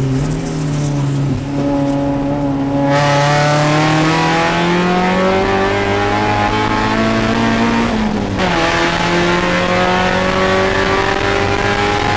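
Spec Miata race car's four-cylinder engine heard from inside the cockpit: duller on part throttle for the first few seconds, then pulling hard with the pitch climbing. About eight seconds in the note breaks briefly and drops on an upshift, then climbs again.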